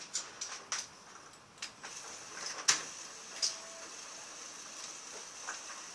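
A child's motorized dancing-bird model running, its plastic parts making scattered light clicks and knocks, with a sharper click a little under three seconds in.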